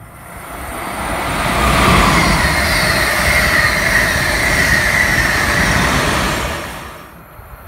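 Amtrak Acela Express electric trainset passing close at speed: a rising rush of wheels and air with a whine that falls slightly in pitch. It builds over the first two seconds, holds, then drops away sharply about seven seconds in.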